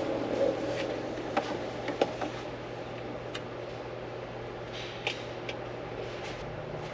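Steady low hum of the background in a truck cab, with a few light clicks and rustles of things being handled.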